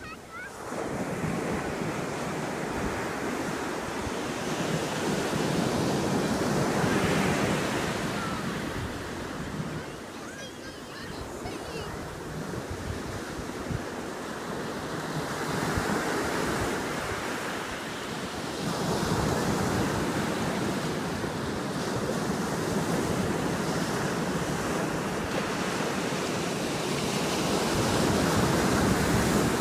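Sea waves washing in on the shore, the surf noise swelling and ebbing several times, with wind rumbling on the microphone.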